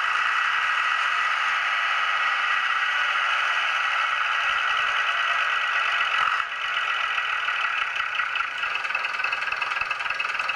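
Sound decoder in a Bachmann Derby Lightweight model diesel multiple unit playing its recorded diesel engines idling through the model's small speaker, with the second engine having kicked in. The sound is steady and thin, with little bass, and dips briefly about six seconds in.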